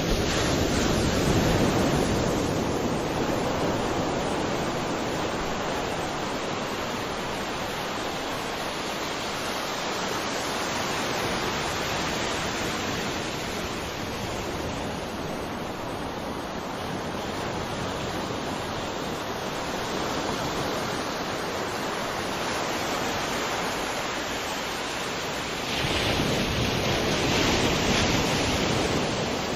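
Ocean waves breaking and washing on a shore, a steady rush of surf with a louder swell near the start and another near the end.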